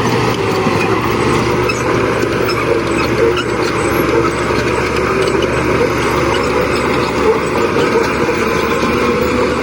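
Diesel engines of heavy earthmoving machines running steadily under load, a loud continuous mechanical noise with a constant low hum.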